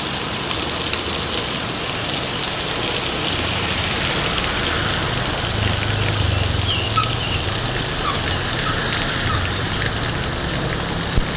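Heavy rain pouring steadily. A motor vehicle's engine runs low underneath from about three seconds in.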